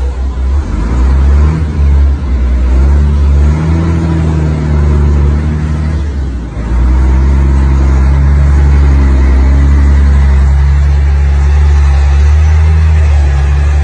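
A loud engine running with a low, steady drone that dips briefly about six and a half seconds in.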